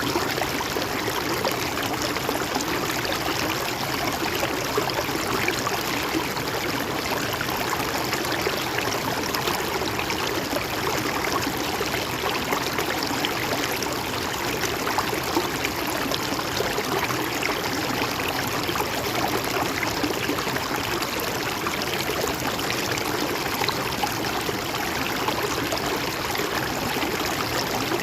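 A flowing stream or small river, a steady rush of water with fine splashing and trickling.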